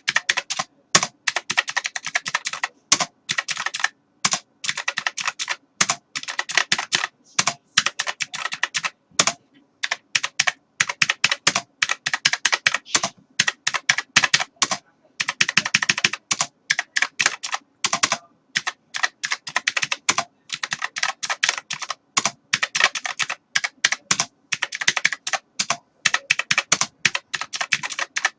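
Typing on a computer keyboard: fast flurries of key clicks with short pauses between runs.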